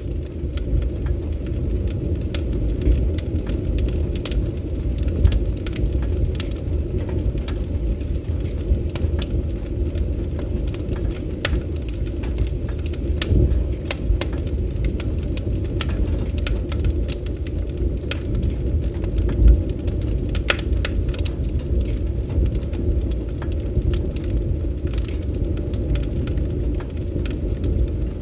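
Fireplace fire crackling: a steady low rumble of flames with frequent sharp, irregular crackles and pops.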